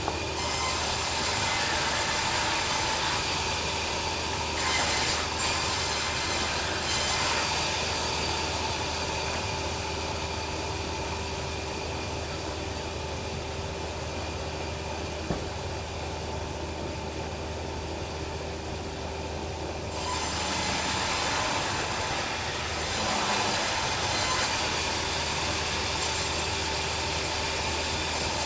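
Log band sawmill running, its blade cutting lengthwise through timber with a steady hum and a hissing cut. The cutting noise eases off for a stretch in the middle and comes back strongly about two-thirds of the way through.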